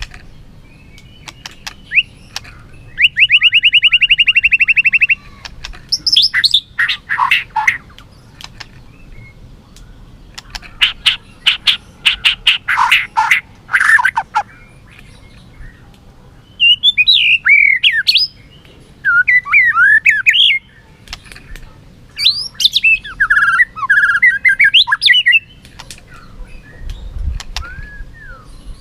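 White-rumped shama singing a challenge song in loud, varied bouts with short pauses between them. About three seconds in comes a fast trill, followed by sharp, clipped notes and swooping whistles.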